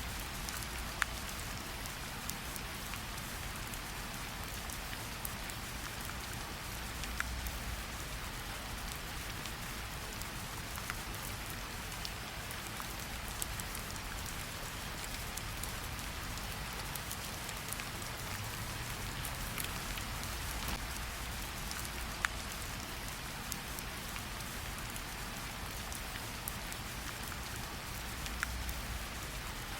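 Steady rainfall, a constant hiss with scattered louder drop ticks and a low rumble underneath.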